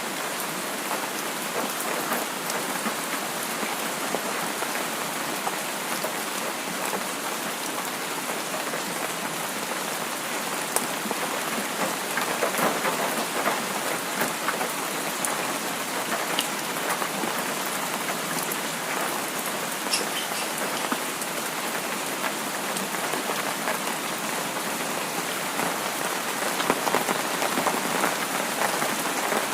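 Steady rain falling on a surface, an even hiss with scattered close drops pattering.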